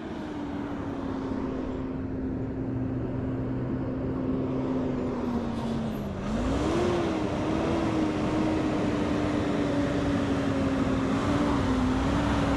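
Engine of a truck hauling a loaded excavator trailer: its note sinks slowly as it slows for about six seconds, then jumps up and settles into steady, louder running as it pulls away again in a lower gear.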